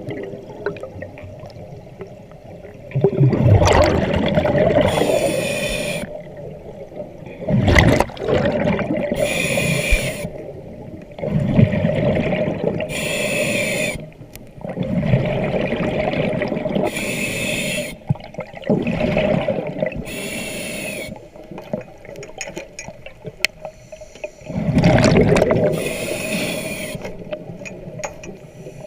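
Scuba diver breathing underwater through a regulator: a hissing inhale, then an exhale that bubbles out in a gush, repeated about every four seconds, six breaths in all.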